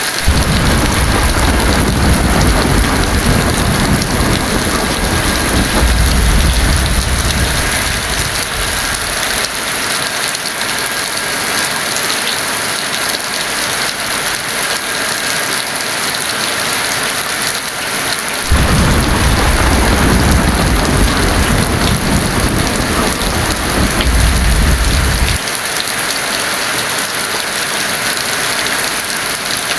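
Heavy rain falling in a steady, loud hiss, with two long low thunder rumbles: one rolling in at the start and lasting about eight seconds, the other beginning about 18 seconds in and lasting about seven.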